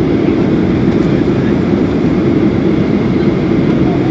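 Steady low drone of a Boeing 737-800's CFM56-7B turbofan engines and airflow, heard inside the passenger cabin.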